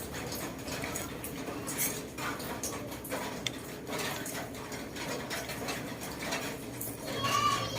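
Metal utensils clinking and scraping against a pot or bowls in a series of short, irregular knocks. A brief high pitched sound comes near the end.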